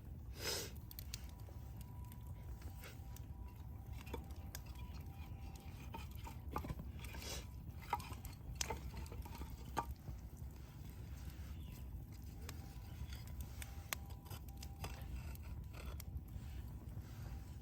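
Wood campfire crackling, with irregular small pops and snaps over a steady low rumble.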